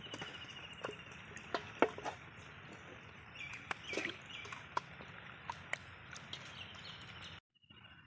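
Scattered soft clicks and wet squelches of raw chicken pieces being mixed by hand into a thick spice paste, with a bird trilling in the background at the start and near the end. The sound cuts out briefly near the end.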